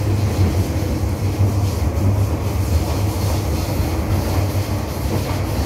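Inside the car of an MTR M-Train electric multiple unit running on the track. Steady rumble of wheels and running gear under a constant low hum.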